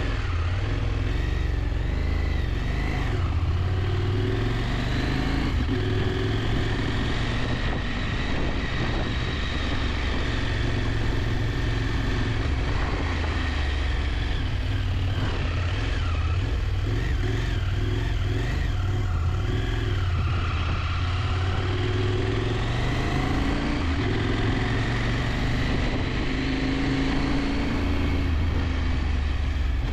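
KTM 890 Adventure's parallel-twin engine running under way, its pitch rising and falling as the revs change, over a steady low rumble of wind on the camera.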